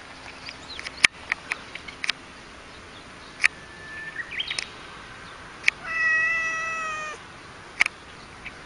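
Domestic cat giving one drawn-out meow about a second long, a little past the middle, its pitch falling slightly at the end. Scattered sharp clicks come before and after it.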